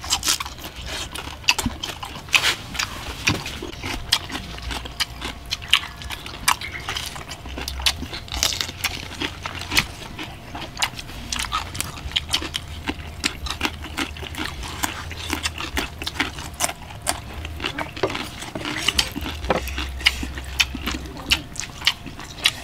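Close-up eating sounds: wet chewing, lip-smacking and crunchy bites of cooked pig intestine and raw long beans, a steady run of quick mouth clicks.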